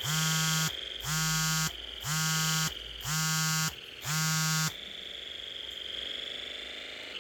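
An electronic buzzer sounding in a regular pulse, about one buzz a second, five times, then stopping, over a steady high-pitched whine.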